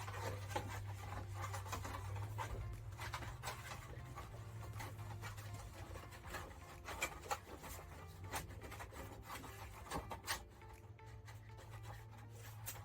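Plastic heater vent and duct parts being handled and fitted by hand: irregular rubbing, scraping and clicks of plastic, over a steady low hum.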